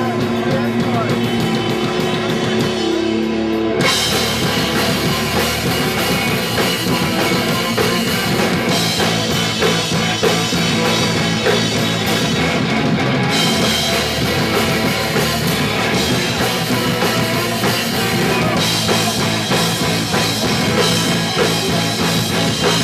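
Live rock band playing an instrumental intro: sustained guitar notes at first, then the drums with crashing cymbals and the full band come in about four seconds in and play on loudly.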